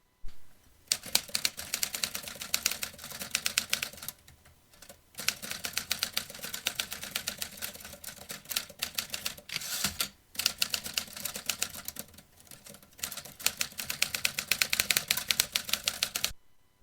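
Vintage typewriter being typed on: rapid runs of key strikes clacking, with short pauses about four and ten seconds in. The typing stops abruptly near the end.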